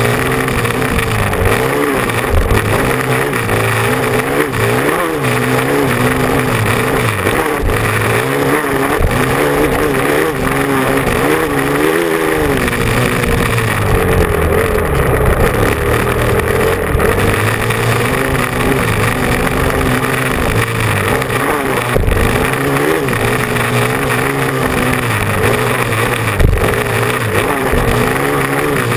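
Motocross bike engine running hard close to the microphone, its pitch repeatedly rising and falling as the throttle is opened and rolled off.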